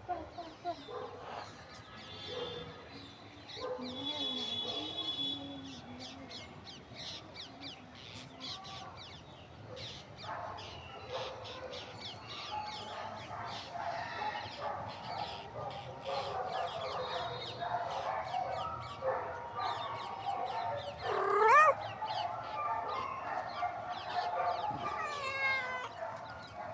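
Animals calling: many short clucking-like calls and sharp clicks, with one loud rising call about 21 seconds in.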